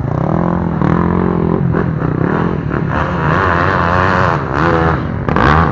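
Trail motorcycle engine running and being revved, its pitch rising and falling repeatedly.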